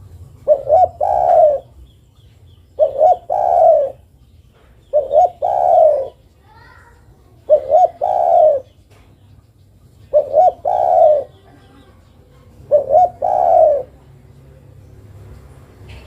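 Spotted dove (derkuku) cooing: six calls about every two and a half seconds, each two quick notes and then a longer falling coo. This is the call that the uploader labels as a female calling to a male.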